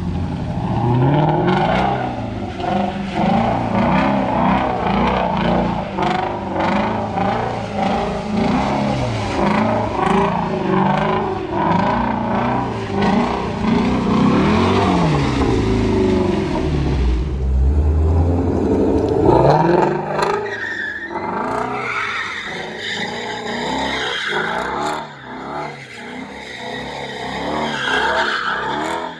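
Car engine revving hard up and down with tyres squealing, as in a burnout or donuts. About twenty seconds in, the engine note drops away and a lighter, scattered noise carries on.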